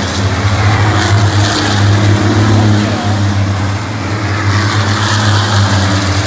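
Racing engines running with a steady low drone, the higher noise swelling and fading as vehicles pass.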